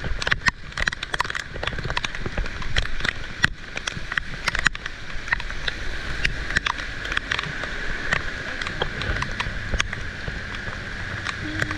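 Heavy rain, with many drops spattering irregularly close by over a steady rush of water and a low rumble.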